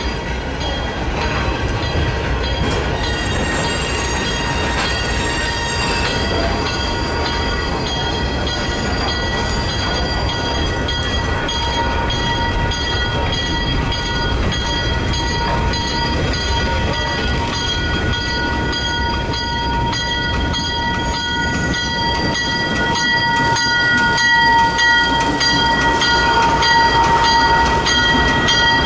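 Diesel-hauled short train rolling, with a low engine rumble, scattered wheel clicks and a steady high-pitched wheel squeal that grows louder in the last few seconds.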